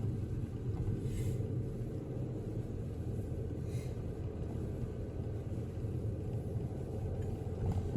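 Steady rumble of a car driving, engine and tyres heard from inside the cabin, with a couple of brief faint hisses about a second in and around the middle.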